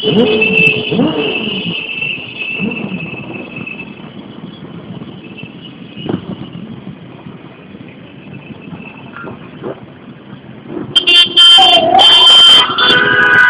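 City street traffic with vehicle engines passing. About eleven seconds in, an emergency-vehicle siren starts wailing loudly, its pitch sweeping down and up.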